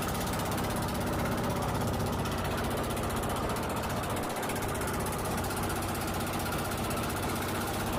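Engine of a motorized bangka (outrigger fishing boat) running steadily at an even speed, a low hum with a fast, even beat.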